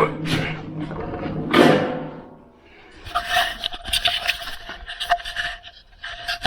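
Scraping and a dense run of small metallic clicks and clatter from metal being handled. The clatter starts about three seconds in and follows a couple of seconds of soft hissing rubs.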